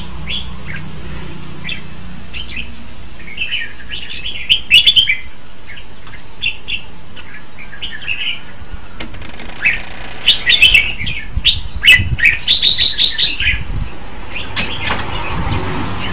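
Red-whiskered bulbuls singing in short, quick warbled phrases. The song grows louder around five seconds in and again from about ten to thirteen seconds, where sharp clicks are mixed into the phrases.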